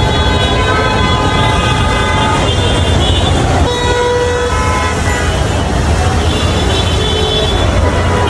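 Road traffic with vehicle horns sounding again and again, held tones lasting a second or two each, over a steady low rumble.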